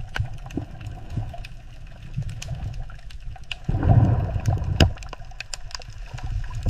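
Moving water splashing and gurgling, with scattered sharp clicks and a louder stretch of splashing about four seconds in.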